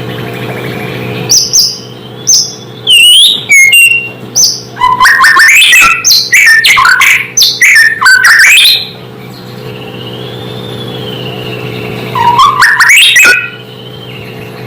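White-rumped shama (murai batu) singing loud, rapid phrases of gliding whistles and chattering notes through the first nine seconds, with one more short burst near the end. A steady low hum runs underneath.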